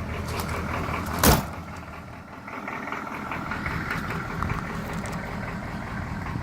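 GM 5.7-litre V8 diesel in a 1981 Cadillac Eldorado, just started and idling steadily. A single loud thump comes a little over a second in.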